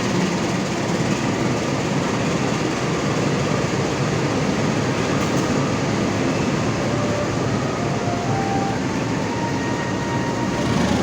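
Train passing close by: a steady, loud rumble of the train on the rails.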